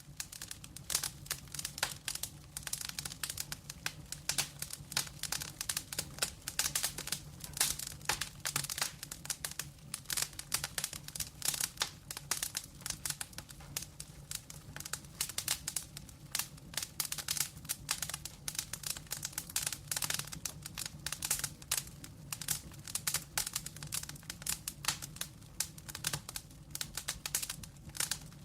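Wood fire crackling: dense, irregular pops and snaps from burning logs, over a steady low hum.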